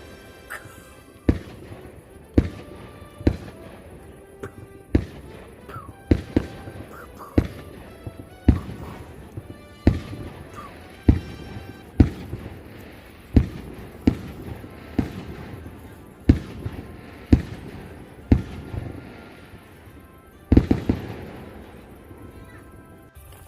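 A series of sharp bangs, about one a second, with a quick cluster of several bangs near the end.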